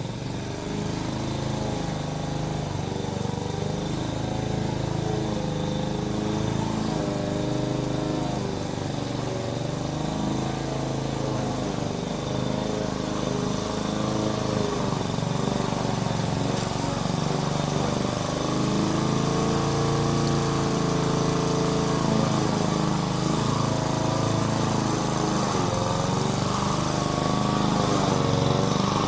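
Small engine of a grass-cutting machine running steadily, its pitch wavering up and down as it works, getting a little louder toward the end.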